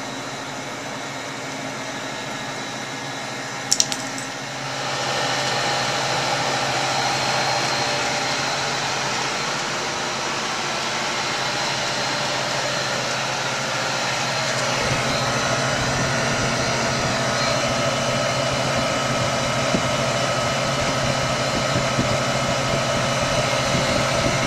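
Walk-in freezer refrigeration equipment running with a steady hum of several tones. A sharp double click comes about four seconds in, and the running noise grows louder just after it. A deeper low hum joins about fifteen seconds in.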